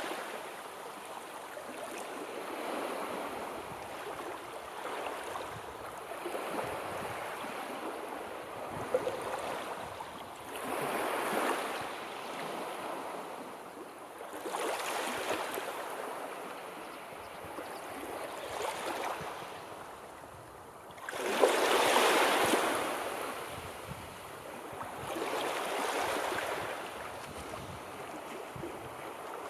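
Sea waves surging and washing in, swelling and fading every few seconds, with the biggest surge about two-thirds of the way through.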